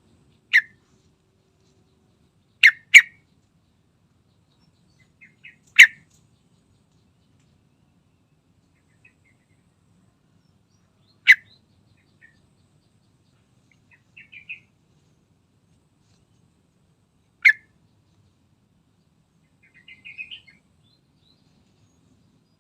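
Sooty-headed bulbul giving short, sharp call notes, six of them a few seconds apart, two in quick succession near the start. Faint soft twittering comes twice in the second half.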